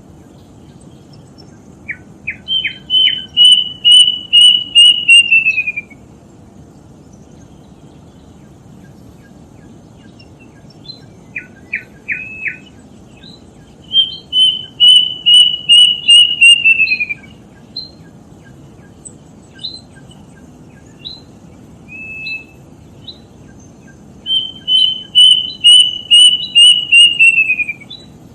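Kedasih, a Cacomantis cuckoo, singing: three phrases, each opening with a few short notes and going into a run of about ten whistled notes held on one pitch that drop away at the end, with scattered single notes between phrases.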